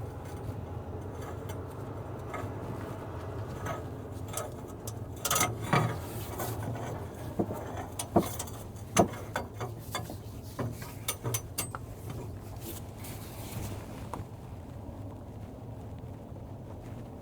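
A filter wrench working a stuck oil filter off a truck engine: scattered metal clicks and knocks, bunched in the middle, over a steady low hum.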